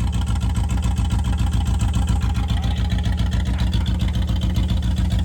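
A vehicle engine idling steadily with an even pulse.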